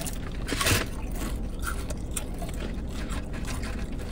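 Close-up eating sounds: two people chewing and smacking on mouthfuls of wet burrito, with small wet clicks and a short rustle of the paper wrapper under a second in, over a steady low hum.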